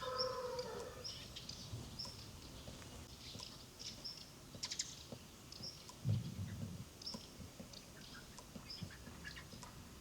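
The end of a rooster's crow fades out in the first second. Then a small bird chirps over and over, a short high note about once a second, with scattered light clicks and a low thump about six seconds in.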